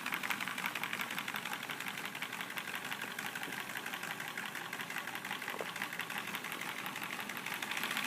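Lego model diesel engine running steadily: its plastic pistons and crankshaft clatter in fast, even ticks, with a sound the builder calls deep like a diesel.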